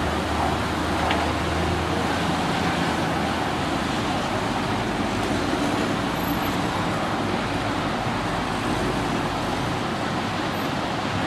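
Steady road traffic noise, with a vehicle engine heard running through the first few seconds.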